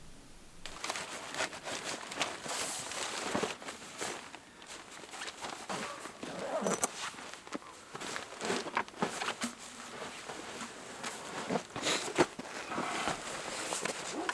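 Dense, irregular crunching and rustling that starts about a second in and keeps going.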